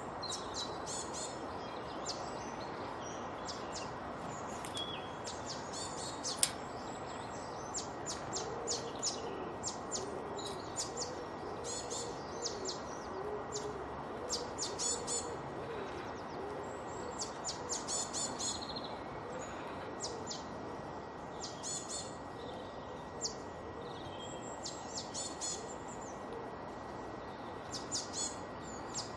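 Songbirds chirping in short, quick high phrases that repeat every second or two over a steady background hiss, with a fainter low wavering call underneath from about a third of the way in until past the middle.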